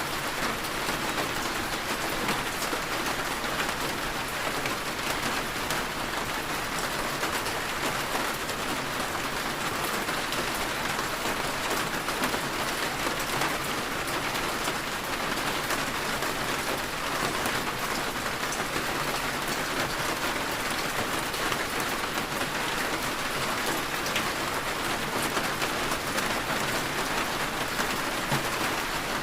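Heavy rain falling steadily on surfaces, a dense even hiss full of small drop ticks.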